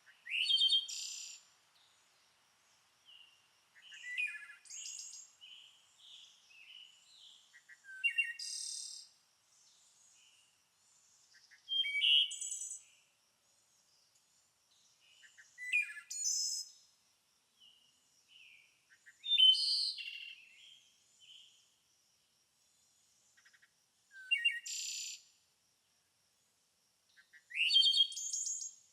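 A songbird singing: short, bright phrases repeated about every four seconds, with softer chirps between them.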